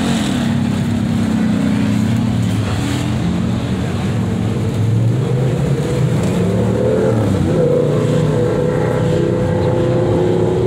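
Car engine running, its pitch climbing sharply at the start and again about seven and a half seconds in, each time easing down slowly.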